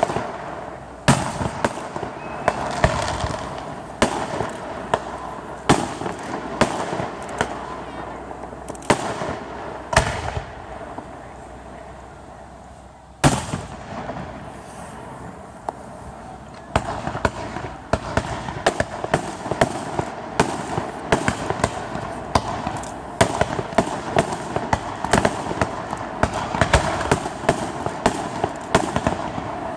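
Fireworks display: aerial shells bursting in sharp bangs with crackling, at an irregular pace. After a brief lull, one especially loud bang comes about halfway through, and from there the bursts come thick and fast in near-continuous crackling and popping.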